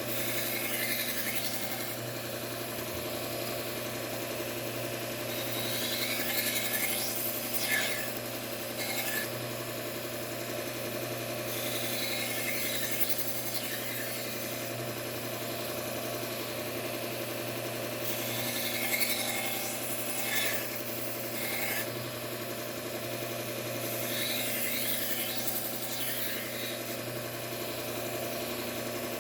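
Bucktool belt grinder running at slow speed with a steady motor hum, while a knife blade is drawn across the abrasive belt in repeated passes, each pass a hissing scrape lasting a few seconds.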